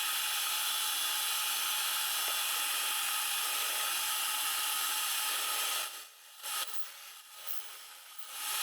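Power drill with a 6 mm bit boring through beech wood, running steadily. It stops for about two seconds from about six seconds in, with a couple of brief restarts, then runs again near the end.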